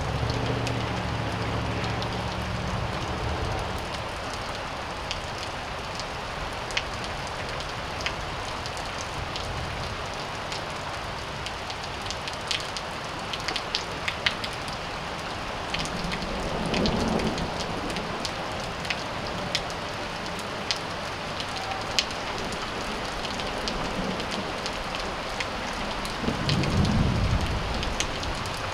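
Steady rain falling, with sharp drips tapping now and then. A few low rumbles swell and fade, the loudest near the end.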